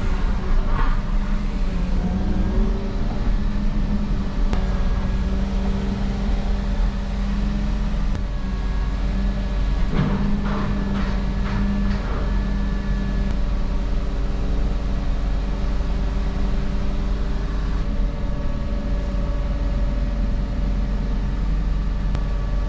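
Excavator's diesel engine running steadily at a constant pitch, with a short cluster of knocks about ten seconds in.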